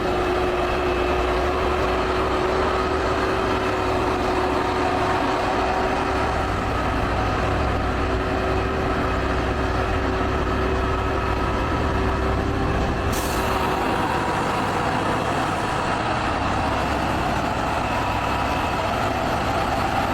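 Heavy diesel trucks running steadily under load. A steady hum runs through the first two-thirds and then stops about 13 seconds in.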